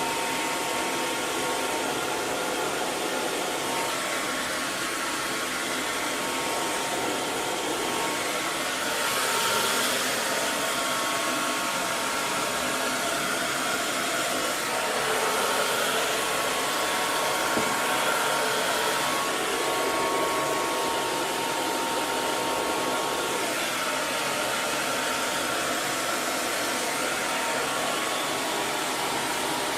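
Hair dryer running continuously: a steady rush of blown air over the motor's faint whine, swelling slightly about ten seconds in and again around the middle.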